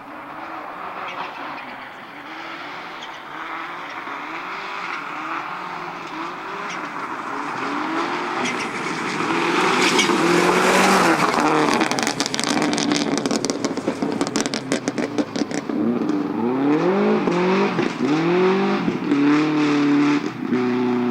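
Rally car engine approaching and revving hard through quick gear changes, loudest about halfway. It is followed by a rapid spell of crackling pops from the exhaust, then revs climbing sharply again and holding high.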